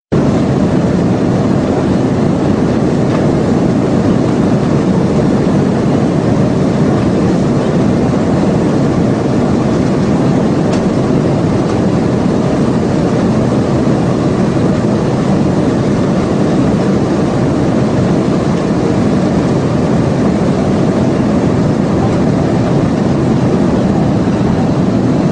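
An aeroplane taking off: a steady, loud rushing noise of engines and air.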